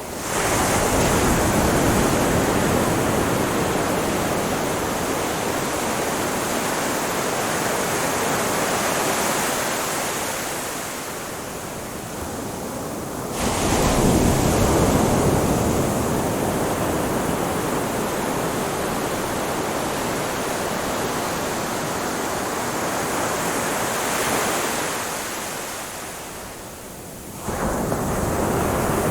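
Ocean surf washing onto a shore in a steady rush. It swells suddenly about halfway through and again near the end, each time after a short easing.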